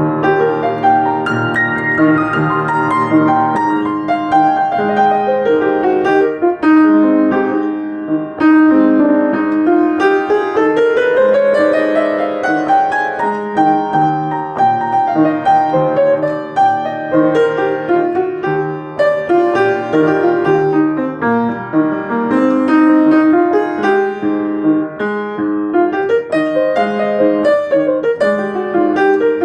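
Solo piano playing improvised music, with flowing notes and a rising run about ten seconds in that climbs for several seconds before settling back into repeated figures.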